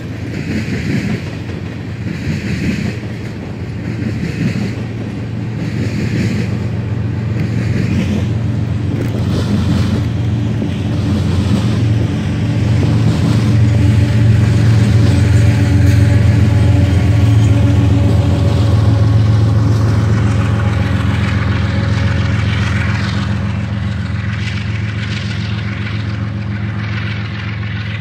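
Freight train of tank cars rolling past, wheels clicking over rail joints about once a second at first. A diesel locomotive's engine hum swells to its loudest about halfway through, then eases off.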